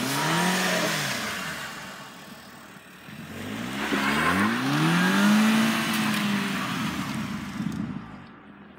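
2010 Volkswagen GTI's turbocharged four-cylinder engine revving twice as it tries to drive out of deep snow: a short rev at the start, then a longer one that climbs, holds and falls away, with the hiss of the front tyres spinning in the snow under it.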